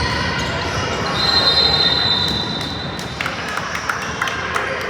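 Basketball game noise in a gym: a steady high-pitched squeal starts about a second in and lasts about two seconds, over basketball bounces and court noise. The squeal fits a sneaker squeaking on the hardwood or a referee's whistle.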